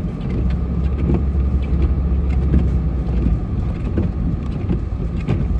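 Steady low rumble of a snowplow truck's engine and road noise, heard inside the cab while it plows, with a few faint knocks.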